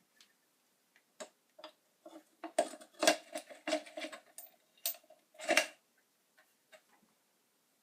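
Irregular clicks, taps and light clatter of small hard objects being handled. It is sparse at first and busiest in the middle.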